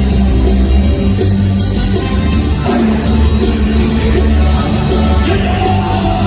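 Live Korean worship music: a band with bass, drums and guitar plays loudly while voices sing, to a steady beat.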